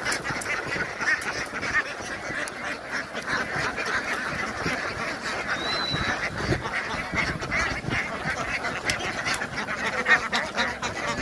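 A flock of ducks quacking and chattering continuously, many birds calling over one another at once.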